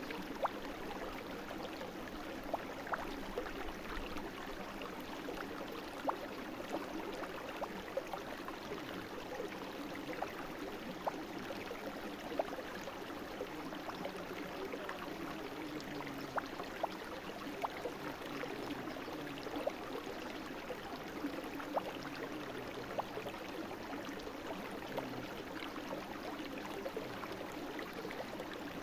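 Small brook babbling steadily, its even rush of water dotted with many small quick plinks.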